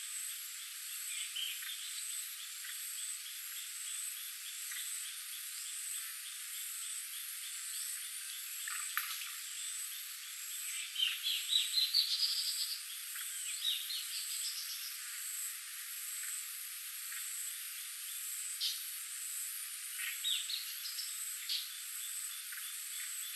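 Forest ambience: high, steady insect trilling, with a few runs of quick rising chirping calls from small animals, the loudest about halfway through and another near the end.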